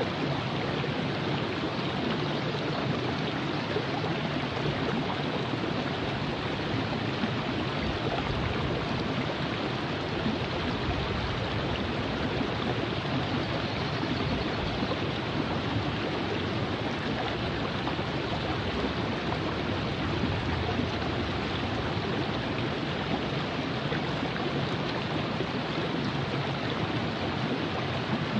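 Virgin River flowing: a steady, even rush of moving water over rocks.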